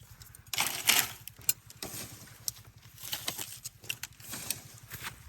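Dry leaves and debris rustling and crackling as they are handled, with a louder rustle about a second in and scattered sharp clicks.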